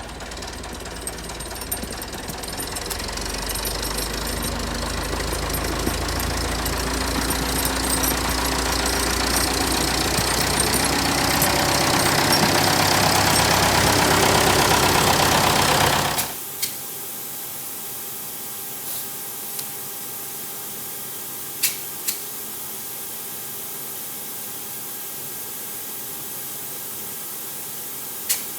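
Large air compressor running while it inflates a tractor tyre to its final pressure, with a low steady hum and a hiss that grows steadily louder, then cuts off suddenly about sixteen seconds in. Afterwards a quieter steady hum remains, with a few sharp clicks.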